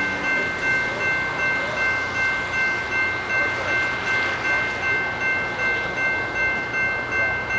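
A train running past on the rails, a steady rumble with a regular rise and fall in loudness, and a few high steady tones held throughout.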